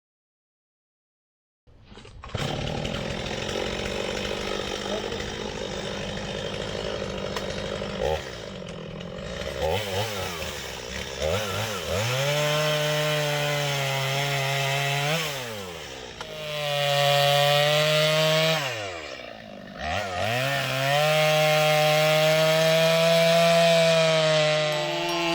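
Two-stroke chainsaw running at full throttle while cutting through wood, starting about two seconds in. Its engine pitch twice drops sharply and climbs back as the throttle is eased off and opened again.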